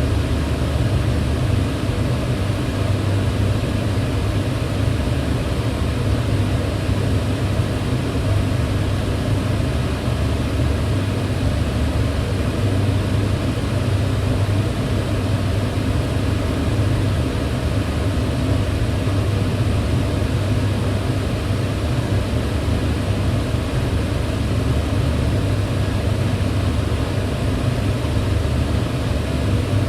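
Kitchen range hood fan running steadily: an even, unbroken rushing noise with a strong low hum.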